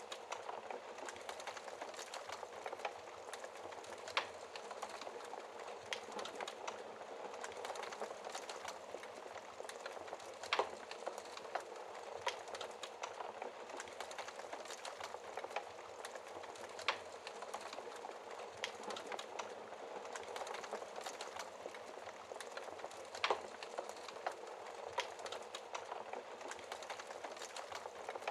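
Wood fire burning in a fireplace: a steady hiss with constant small crackles and occasional sharper pops.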